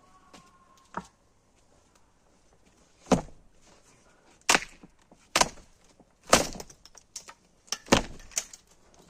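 Wood cracking and splintering in a string of sharp knocks, about seven spread over several seconds, as old insulation is ripped off a wooden door.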